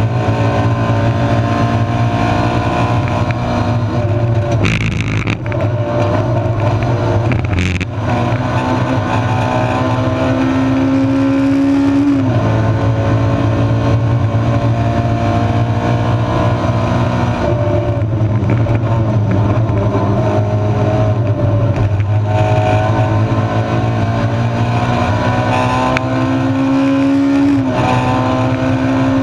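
Honda 1.6-litre four-cylinder race car engine heard from inside the stripped cabin under hard driving. The revs climb slowly for several seconds, then fall sharply, several times over, with brief breaks in the engine note about five and eight seconds in.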